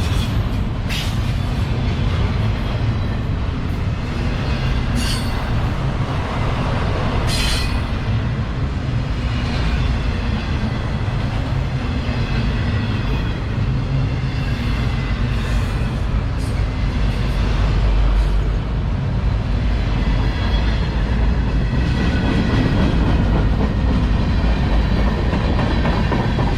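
Freight cars of a CSX manifest train rolling past right beside the rails, a steady heavy rumble of wheels on track. Faint high-pitched wheel squeal runs through the middle, and a few sharp clanks come in the first several seconds.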